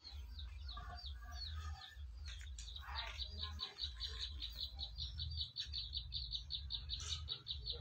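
A small bird chirping in high, quick notes. At first these are short falling chirps, then from about two seconds in a fast, even run of about seven a second. A steady low rumble sits underneath.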